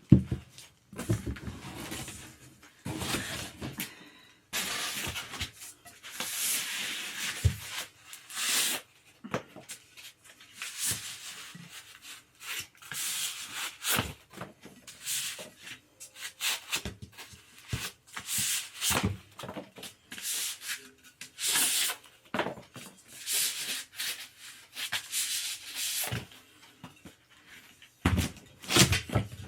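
Irregular rustling, scraping and knocks of gaming-chair parts and their packaging being unpacked, handled and set down.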